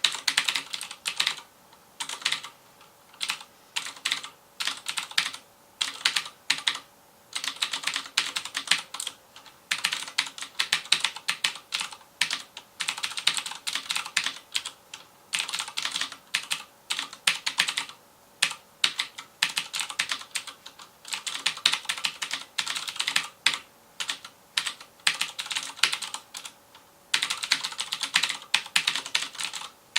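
Fast typing on a FILCO Majestouch Convertible 2 mechanical keyboard with Cherry MX Blue switches: rapid, crisp clicking keystrokes in bursts of a second or two with short pauses between.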